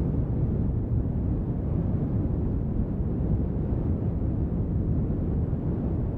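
Steady brown noise, a deep even rumble with little treble, mixed with rain sound.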